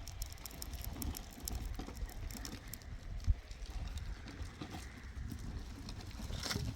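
Rain pattering on the hut in irregular light ticks, over a low rumble of wind on the microphone, with one louder knock near the end.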